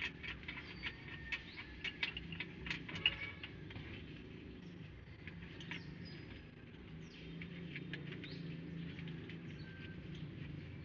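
A quick run of light clicks and taps over the first few seconds, then a few faint bird chirps over a low steady hum.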